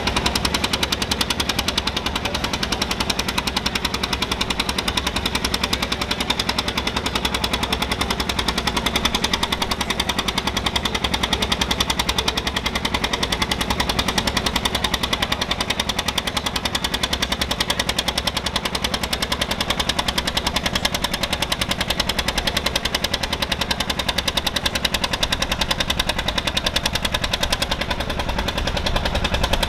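Vintage pulling tractor's engine working hard, its exhaust giving a rapid, even string of pops that holds steady throughout.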